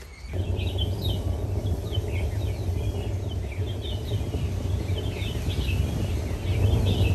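Small birds chirping over and over, short quick calls, over a steady low rumble that starts suddenly just after the start.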